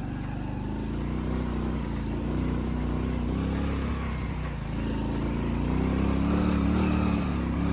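Motorcycle engine running as the bike is ridden, its pitch wavering, dipping about four seconds in, then climbing and getting a little louder.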